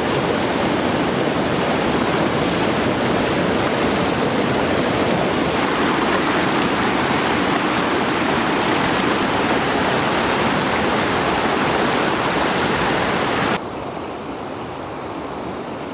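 Fast-flowing river rushing steadily over rocks, a loud, even roar of water. About three-quarters of the way through it drops suddenly to a quieter, duller rush.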